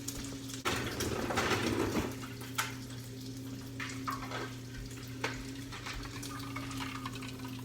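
Kitchen sounds while cooking: a short rush of noise, like a tap running, about a second in, then a few light clicks and knocks of dishes or utensils over a steady hum.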